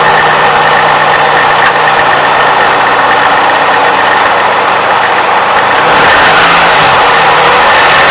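Toyota 3.5-litre V6 idling soon after a cold start, with a light clacking from the variable valve timing advance mechanism, which is typical of these engines for the first half minute or so and is taken as normal. It gets a little louder about six seconds in.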